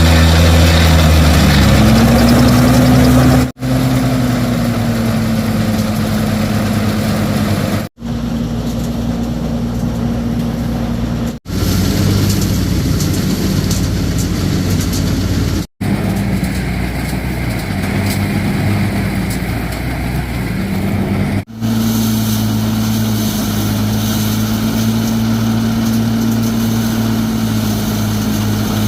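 An engine running steadily, its speed rising over the first couple of seconds before it levels off. The sound breaks off sharply every few seconds and carries on at a slightly different pitch.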